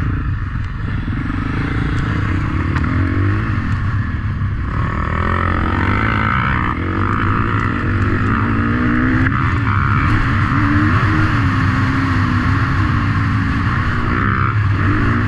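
Motocross motorcycle engines running and revving, their pitch rising and falling again and again.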